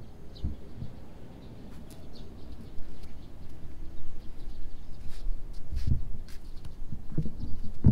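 Small birds chirping, many short high calls scattered through, over a low rumble with a few dull thumps, the loudest near the end.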